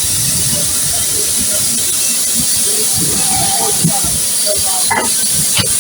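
Steam locomotive hissing steadily, with two sharp metallic knocks near the end.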